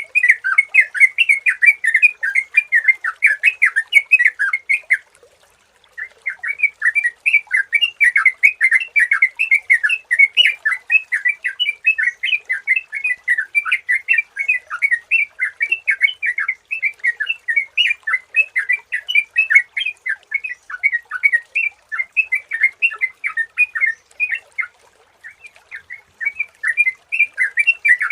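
Sooty-headed bulbul (trucukan) song: a dense run of rapid, bubbling chirped notes. It breaks off briefly about five seconds in and again near the end.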